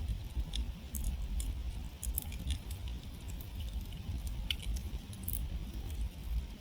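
Wood campfire crackling: irregular sharp pops and snaps from the burning wood, a few each second, over a steady low rumble.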